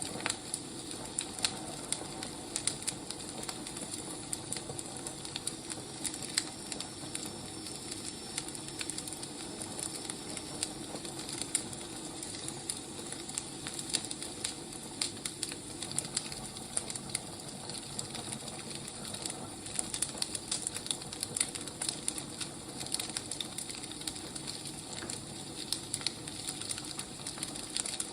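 Firewood burning in a fire: a steady hiss with frequent irregular crackles and small pops.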